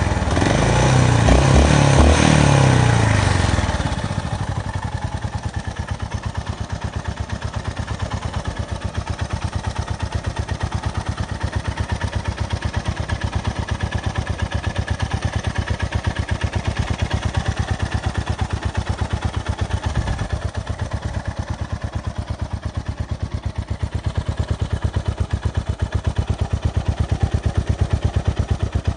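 Honda GB350S's single-cylinder engine breathing through a carbon aftermarket muffler, revved for the first few seconds and then settling to a steady idle with an even, pulsing exhaust beat.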